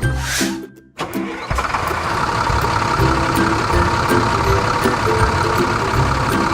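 Cartoon tractor engine sound effect: a short whoosh and a brief cut-out about a second in, then the engine starting and running steadily, with simple background music notes underneath.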